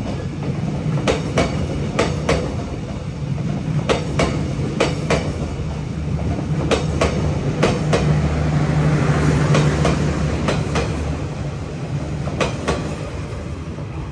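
Passenger train cars of the SE3 express rolling past. The wheels click in pairs over the rail joints above a steady low rumble, which swells about two-thirds of the way through.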